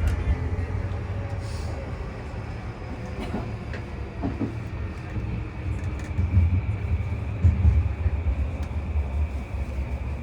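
Interior running sound of a JR E235-1000 series EMU motor car with Mitsubishi full-SiC MOSFET VVVF drive: a low rumble of wheels and motors that eases over the first few seconds as the train slows toward a station, then swells again, with a faint steady high whine.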